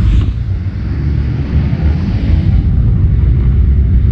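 Dirt bikes racing on a motocross track, their engines running under a heavy, steady low rumble.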